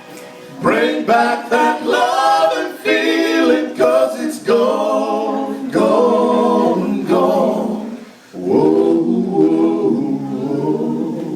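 Voices singing a cappella in harmony: long held, wordless vocal phrases with two brief breaks, one near the start and one about eight seconds in.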